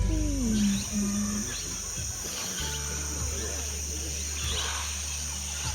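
Amazon rainforest ambience: a steady, high-pitched insect chorus with scattered short chirps, as a music track fades out at the start. A low steady hum comes in about two and a half seconds in.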